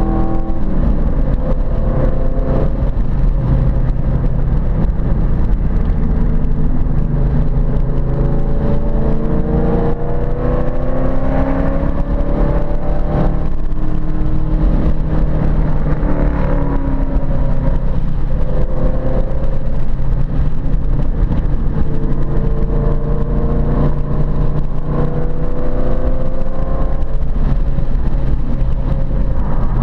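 Ford Mustang Boss 302 V8 engine at racing speed, its pitch climbing several times under acceleration and dropping back in between.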